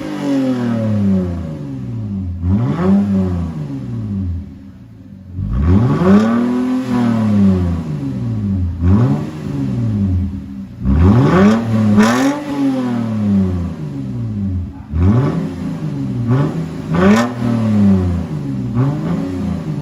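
Lexus IS250's 2.5-litre V6 with the mufflers bypassed, revved again and again: each rev climbs and falls back, about six in all, with a brief settle toward idle a little before the midpoint. The exhaust sound is loud and unmuffled.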